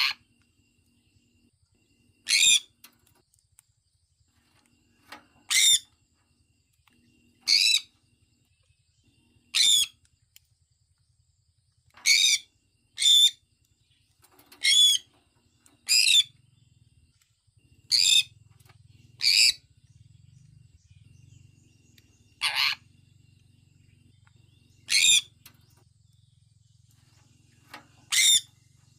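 Sun conure giving short, sharp, high-pitched chirping calls, one every one to three seconds, with a few coming in quick pairs.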